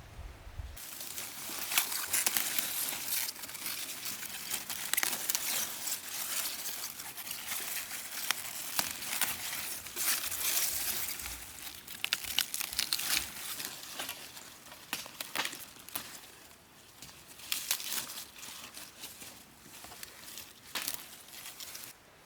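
Dry rustling and crinkling with many small crackles, starting suddenly about a second in and thinning out near the end.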